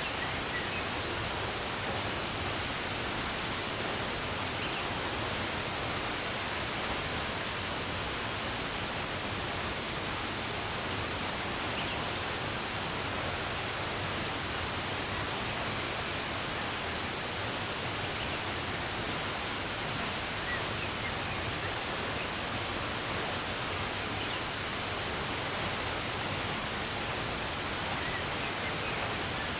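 Steady rush of running water, an even hiss with no breaks, with a few faint bird chirps now and then.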